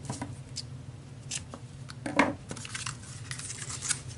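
Ribbon scissors snipping through ribbon: a few short, separate snips, the loudest a little past two seconds in.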